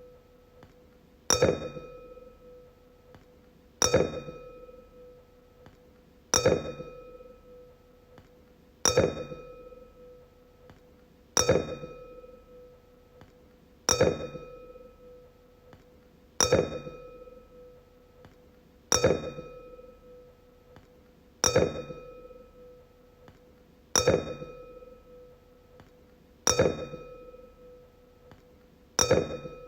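A wine glass struck over and over, about once every two and a half seconds, each clink ringing on in a clear tone that fades away before the next strike.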